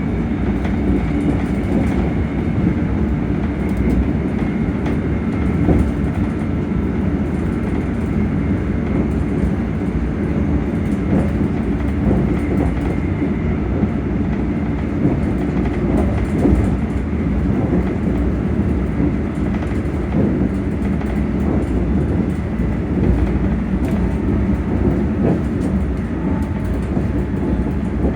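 ScotRail Class 385 electric multiple unit running at speed, heard from inside a carriage: a steady low rumble of wheels on the track, with the traction motors humming as a faint steady high tone and an occasional light knock from the rail joints.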